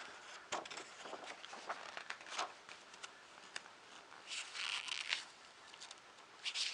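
Paper pages of a magazine being handled and turned: dry rustling with crisp flicks, coming in a few bursts, the busiest about half a second in, around two and a half seconds, and between about four and five seconds.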